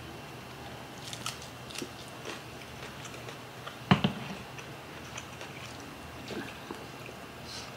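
Close-miked eating sounds: chewing with small wet mouth clicks and smacks as steamed red snapper is eaten by hand, and one sharp knock about four seconds in.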